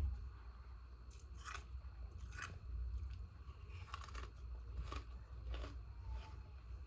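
Ice frozen in humidifier top pieces being bitten and chewed close to the microphone: irregular sharp crunches, about one or two a second, over a low steady hum.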